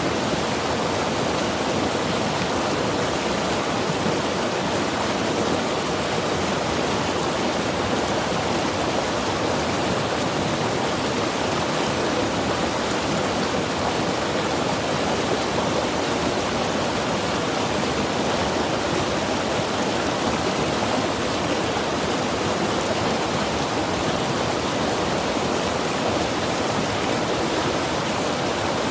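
Mountain river rushing steadily, an even roar of whitewater with no changes or distinct events.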